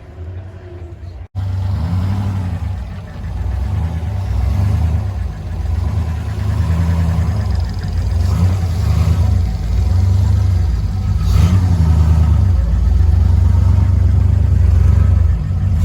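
A car engine running with its pitch rising and falling again and again over a heavy low rumble, starting abruptly about a second in.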